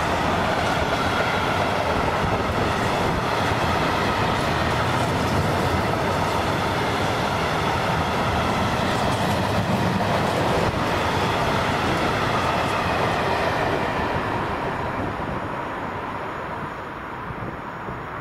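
Train passing on the tracks: a steady loud rumble with a faint whine, dying away over the last few seconds as it moves off.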